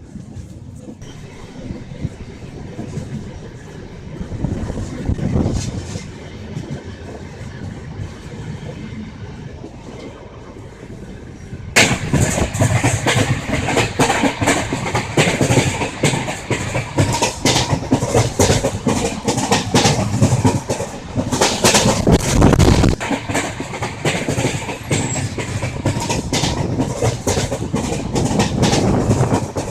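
Moving passenger train heard from on board: the wheels rumble and clickety-clack over the track. It is fairly steady at first, then becomes abruptly much louder and busier about twelve seconds in.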